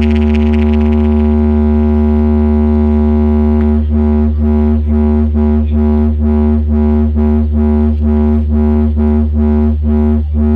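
Held synthesizer drone at a steady pitch with very heavy bass, played loud through a DJ sound system for a sound check. From about four seconds in, it pulses evenly, about two to three times a second.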